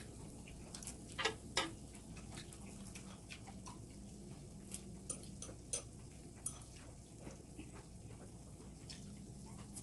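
Light, irregular clicks and taps of chopsticks and tableware and eating sounds during a meal, with two louder clicks a little over a second in.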